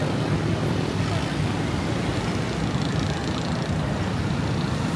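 Busy street ambience: a steady rumble of vehicle traffic with indistinct voices of people around.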